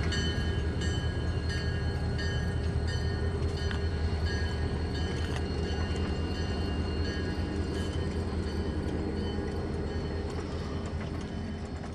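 EMD 645 diesel locomotive prime mover running with a steady, deep rumble. Thin high-pitched tones pulse on and off above it and fade during the second half.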